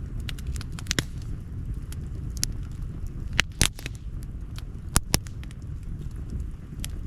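Wood campfire crackling with scattered sharp pops over a steady low rumble, with a cluster of louder pops about three and a half seconds in and two more about five seconds in.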